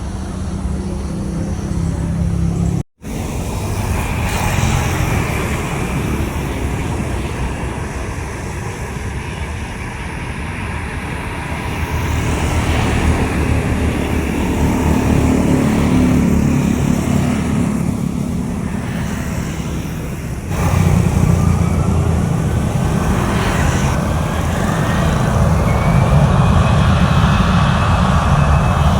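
Jet airliner engines running loud at close range during a takeoff or landing, a steady low rumble with a faint whine that rises in pitch near the end. The sound cuts out for an instant about three seconds in and jumps louder about twenty seconds in.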